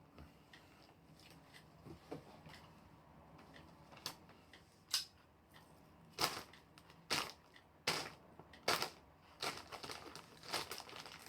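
A plastic sweet wrapper or packet being handled and crinkled. It is quiet for the first few seconds, then comes a run of about eight short, sharp crackles from about four seconds in.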